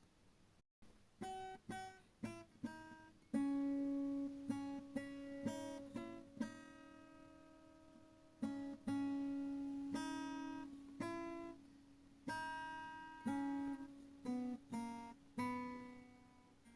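Background music: an acoustic guitar playing a slow melody of single plucked notes and chords, each ringing out and fading.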